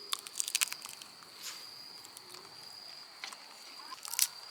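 Crickets chirping in a steady high trill, with a few sharp clicks and taps near the start and again near the end.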